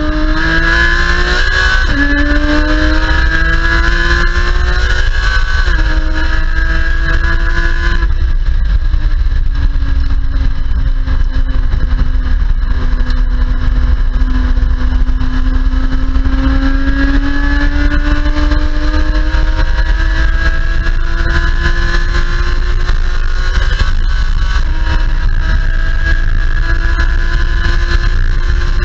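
Porsche Cayman S engine at full throttle on a hot lap. The revs climb and drop with upshifts about two and six seconds in, then fall away as it lifts off about eight seconds in. The revs build steadily again, with another upshift near the end, over constant road and wind rumble.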